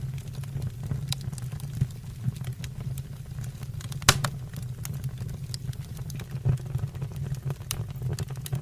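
Wood fire burning in a fireplace: a steady low rumble with scattered crackles and pops, the loudest pop about four seconds in.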